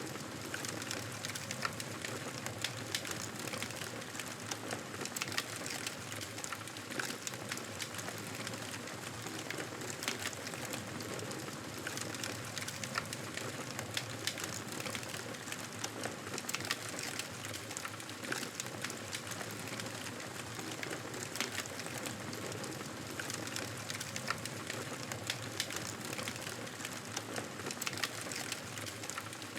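Campfire burning: a steady hiss with frequent sharp crackles and pops scattered throughout.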